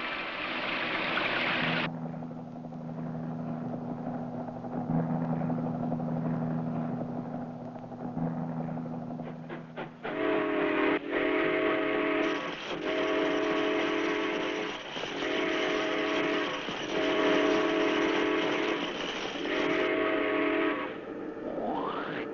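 Cartoon sound effects: a low steady drone, then a run of about six whistle-like horn blasts about a second long each, with short gaps between them. A rising whistle comes near the end.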